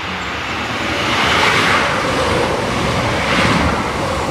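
Diesel multiple unit passing close beneath, a loud rushing of engine and wheels on rail that swells to a peak about one and a half seconds in and again around three and a half seconds.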